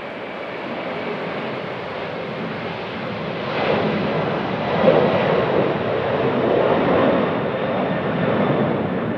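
Jet airliner engines passing close by. The sound grows louder, peaks about four to five seconds in, and stays loud. A faint high whine is heard in the first seconds.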